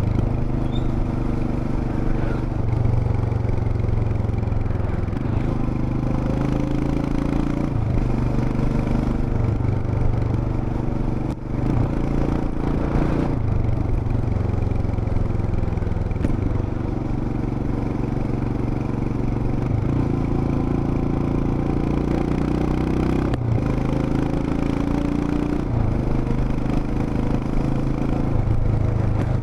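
Royal Enfield Himalayan BS6's 411 cc single-cylinder engine and exhaust running on the move. Its note shifts up and down in steps every few seconds as the rider works the throttle and gears, with a brief dip about eleven seconds in.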